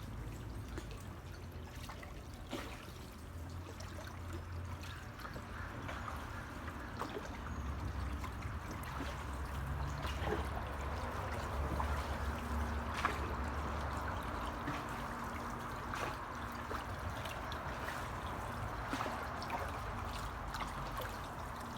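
Water trickling and dripping as canoe paddles dip and lift. A low rumble runs underneath, with a few light knocks several seconds apart.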